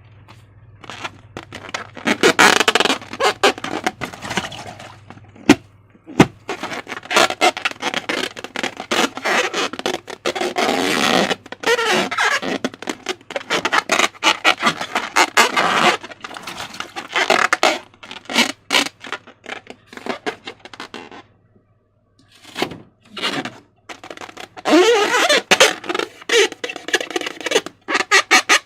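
Slime being squeezed and stretched by hand: bursts of wet squelching and crackling as air pockets pop, stopping briefly a few times, over a faint steady hum.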